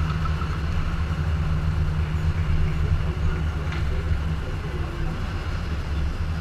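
BMW M4's twin-turbo inline-six engine running with a steady low rumble as the car rolls slowly at low revs.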